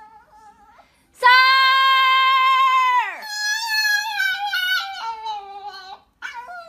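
An animal's long cry, held at a steady pitch for nearly two seconds before it drops away, followed by a quieter wavering whine lasting a few seconds.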